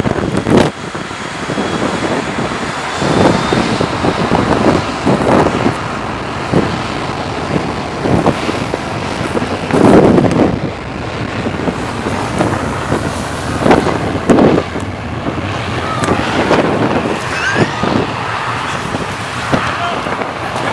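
Jet blast from a departing airliner's engines at takeoff thrust: a loud, steady rush of air with irregular gusts buffeting the microphone.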